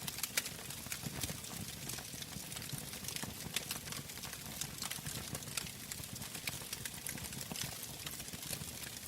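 Wood fire burning in a fireplace: irregular crackles and pops, several a second, over a steady low rush of the flames.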